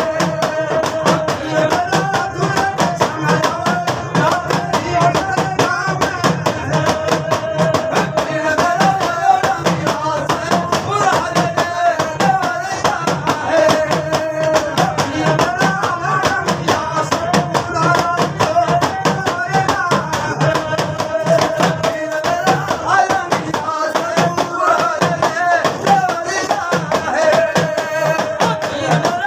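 Folk devotional music from a Rajasthani singing party: a wavering melody line over a fast, steady percussion rhythm, with no clear words.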